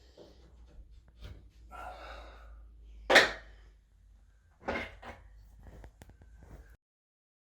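Knocks and scrapes of wooden closet-unit panels being handled and fitted, with a sharp loud knock about three seconds in and another just before five seconds.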